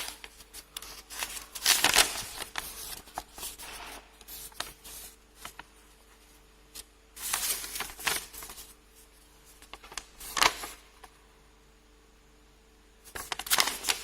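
Toy packaging and paper inserts being handled and unwrapped: irregular bursts of rustling and crinkling with small clicks, separated by quieter pauses.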